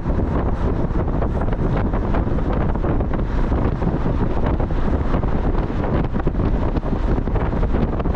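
Wind buffeting the microphone over steady road and engine noise from a moving Mazda Miata.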